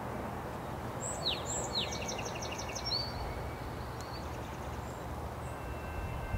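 A songbird sings one short phrase: two quick downward-sweeping notes, then a rapid run of about five notes a second, lasting about two seconds. Steady low outdoor background noise runs underneath.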